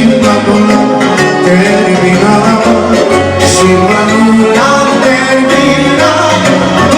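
A live band playing fast, lively music: an ornamented melody over a bass line that changes note about once a second.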